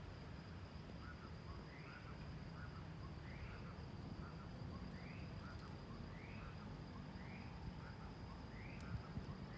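Tropical forest ambience: a steady high insect drone, with an animal repeating a short rising-and-falling call about every second and a half, over a low rumble.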